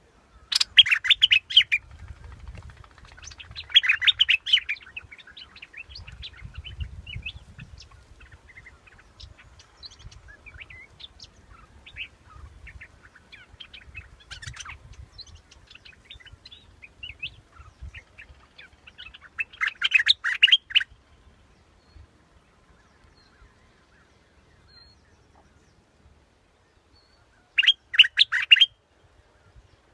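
Bulbul song (the Thai นกปรอดดอกแตง, played as a decoy call): four loud bursts of quick bubbling notes, near the start, about four seconds in, about twenty seconds in and near the end, with faint scattered chirps in between.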